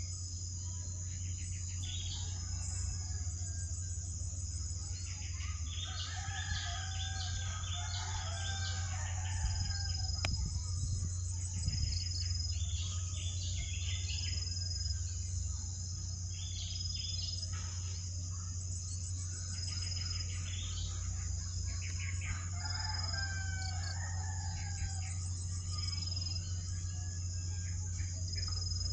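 Birds chirping and calling in scattered clusters of short notes, over a steady high insect buzz and a constant low hum.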